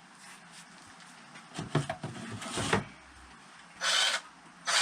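Handling noises on a workbench as an engine is taken apart: a few knocks and rustles of tools and parts, then two short scraping hisses.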